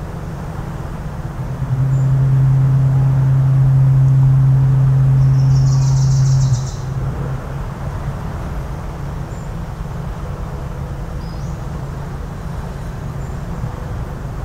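A foghorn sounding one long, low, steady blast of about five seconds, starting about two seconds in and cutting off sharply, over a steady low background rumble. A brief high bird chirp comes near the end of the blast.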